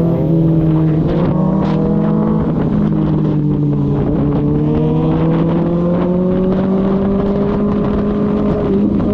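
Kawasaki ZX-6R's inline-four engine running under a light, steady throttle. Its pitch climbs slowly, with wind rumble under it.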